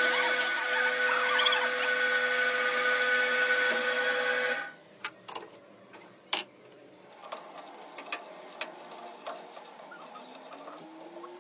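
A workshop power tool's electric motor running steadily with a high whine, cutting off suddenly about halfway through, followed by scattered light metal clicks and knocks.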